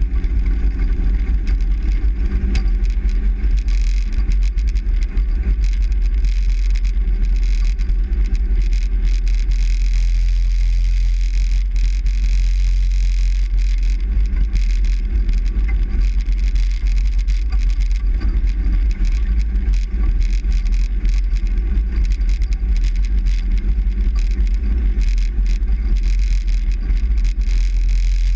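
Steady engine and road noise inside a moving truck's cab: a loud, unbroken low rumble with a faint engine hum.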